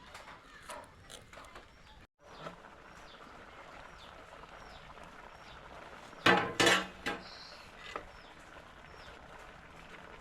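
A bird chirping over and over, each call a short falling high note, about one every half second, over a steady hiss. Two loud, sudden, short bursts break in about six seconds in.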